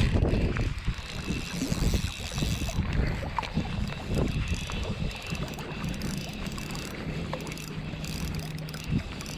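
Wind buffeting the microphone in uneven low gusts, with a faint steady low hum in the second half.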